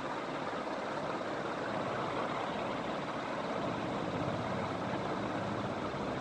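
KBF KB-56-6-2 ceiling fan with Matsushita-style blades running, a steady, even rush of moving air and motor noise.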